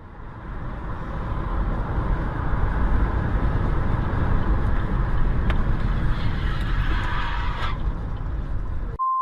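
A car on the move, a steady rumble of engine and road noise. Near the end the sound cuts out abruptly and a short steady beep sounds.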